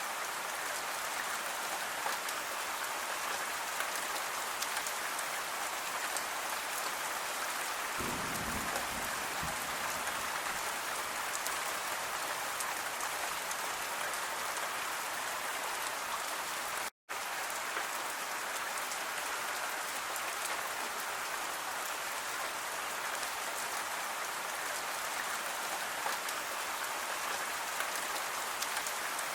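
Steady gentle rain, an even hiss with the patter of individual drops, with a brief low rumble about eight seconds in. The sound cuts out completely for an instant a little past halfway.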